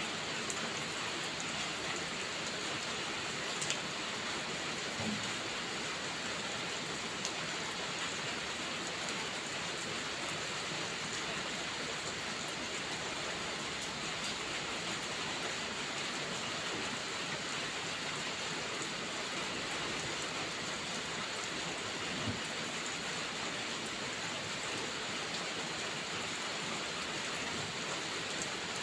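Heavy rain falling steadily, an even hiss with no let-up, with a few sharp pops from a crackling wood fire scattered through it.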